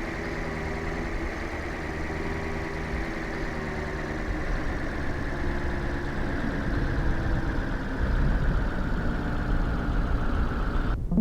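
A vehicle's engine running steadily, with a low rumble underneath. Near the end the sound suddenly goes muffled, followed by a short thump.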